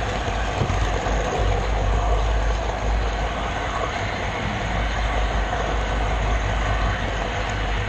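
Steady rolling rumble and rattle of a model railroad camera car running along the track, heard through the GoPro Session riding on the car.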